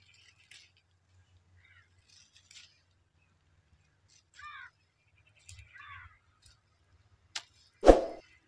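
Small birds chirping faintly now and then, with two short downward-sweeping chirps about four and six seconds in. Near the end comes a sharp click and then a loud pop, the sound effect of a subscribe-button animation.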